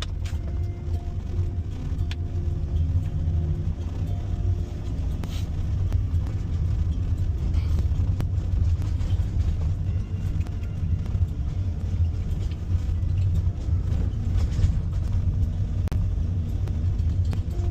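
Ford Transit recovery truck's diesel engine and road noise droning steadily, heard from inside the cab while driving.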